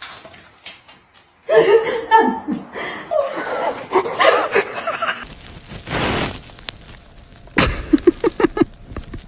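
A person laughing, with voice sounds early on and a run of quick laughing pulses near the end.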